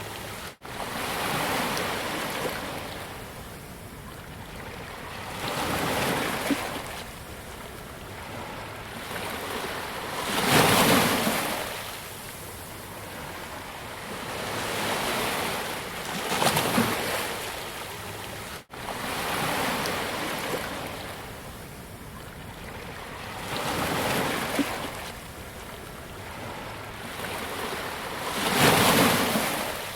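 Ocean waves breaking on a beach: a steady wash of surf that swells into a louder crash every few seconds, then falls back. The sound cuts out for an instant twice.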